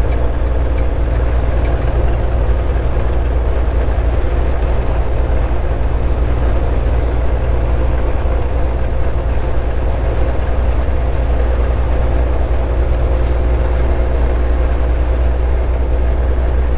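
Steady drone of a Volvo 780 semi-truck heard from inside the cab while cruising on the highway: a deep, even rumble of engine and road noise with a faint steady hum above it.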